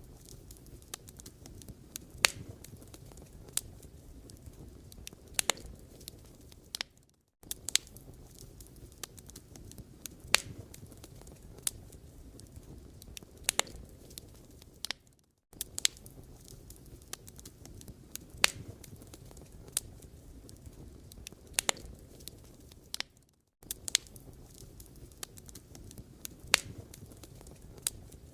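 Firewood burning: a steady low rumble of flames with irregular sharp crackles and pops of the wood. The sound cuts out briefly about every eight seconds.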